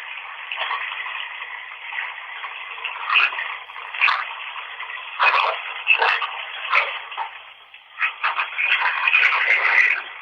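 Running bath water heard as a thin, telephone-like hiss, with irregular short louder spurts and a busier stretch near the end.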